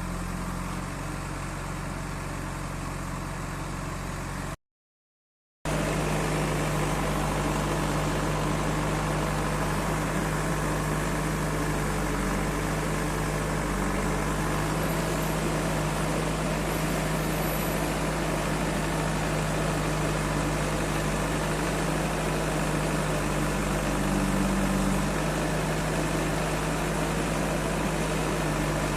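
Heavy machine's diesel engine running steadily, with an even low drone. The sound drops out completely for about a second, about five seconds in.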